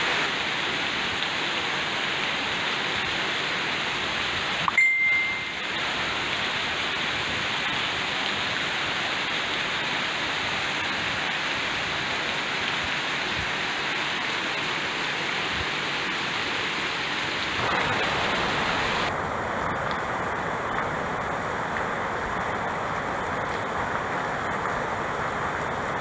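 Heavy rain pouring steadily onto leaves and the ground, as an even hiss, with one short high ding about five seconds in.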